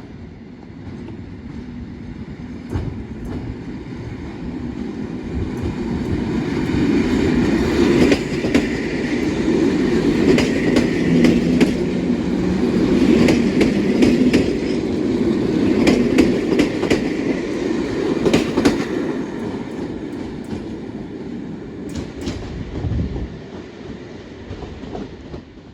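A train passing by, its wheels clacking over the rail joints. It grows louder for several seconds, stays loud for about ten seconds, then fades as it moves away.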